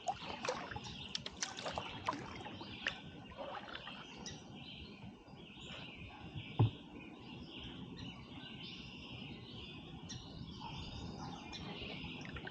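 Birds chirping over a low outdoor background of water, with a few sharp splashy clicks in the first few seconds. A single loud knock, the loudest sound, comes about halfway through.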